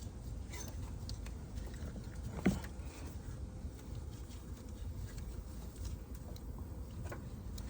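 Quiet handling sounds of a serpentine belt being worked over engine pulleys, with one sharp click about two and a half seconds in, over a steady low background rumble.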